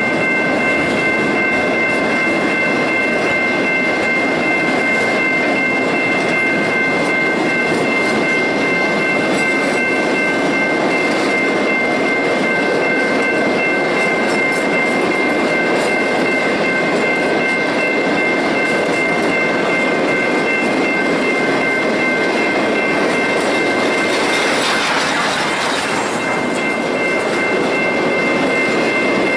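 Ore train cars rolling past with a steady rumble and clickety-clack. A steady high-pitched whine runs through it, dropping out briefly about 24 seconds in.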